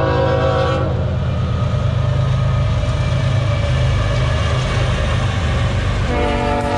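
BNSF freight train's diesel locomotives passing with a steady low rumble; the locomotive air horn sounds a chord of several tones for about the first second, then again about six seconds in.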